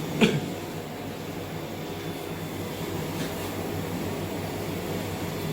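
Steady low machine hum, with one sharp click about a quarter of a second in.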